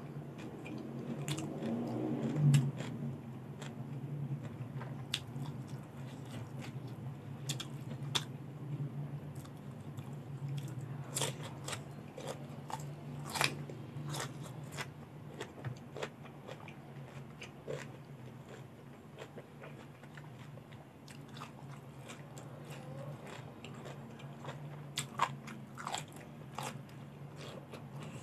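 Close-miked biting, chewing and crunching of crisp raw vegetables dipped in shrimp paste, with many sharp crunchy clicks, the loudest about two and a half seconds in. A steady low hum runs underneath.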